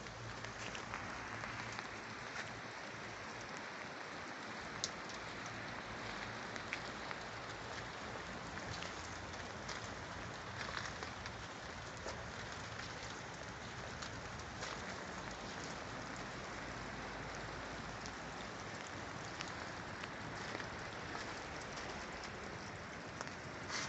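Steady hiss with scattered light ticks.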